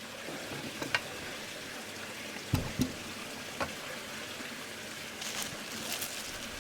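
Packaging being handled and unwrapped from a model steam engine's canopy: a few light clicks and knocks, then crinkling rustle from about five seconds in, over a steady background hiss.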